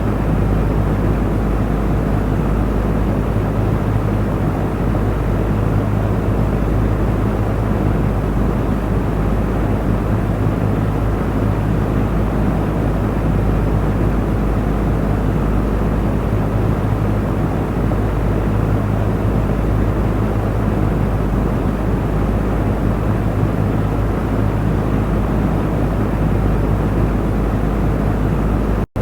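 Electric fan running steadily: an even rush of air over a constant low motor hum, with a split-second cut-out near the end.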